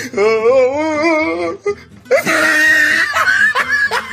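Cartoon character's voice wailing with a wobbling pitch for a second and a half, then breaking into a harsh, loud scream about two seconds in.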